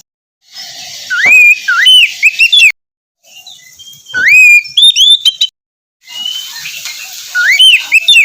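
Oriental magpie-robin (kacer) singing: three phrases of loud, swooping whistled notes, each about two seconds long, cut off sharply with short silent gaps between them.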